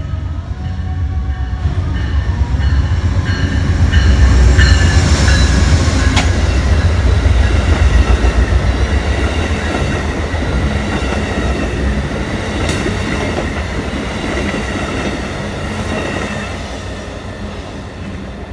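Amtrak passenger train passing close by, a heavy rumble of locomotive and stainless-steel cars with wheels clicking over the rails. It builds to its loudest a few seconds in as the train goes by, then slowly fades as the cars roll past.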